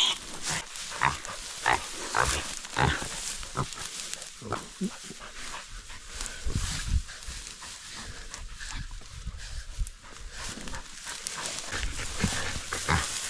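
Wild pig making short, irregular grunts and squeals, with scuffling and thumps around it.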